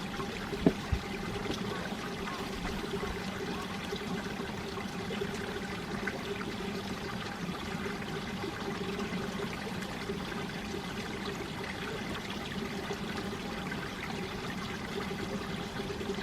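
Mountain valley stream water flowing steadily over rocks, with one sharp click under a second in.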